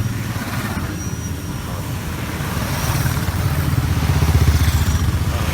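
Motorcycle engines running close by, growing louder about four seconds in.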